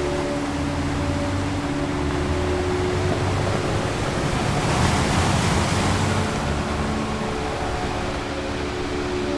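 Ocean waves washing in, one swelling and breaking about halfway through, under a soft drone of held tones from relaxation music.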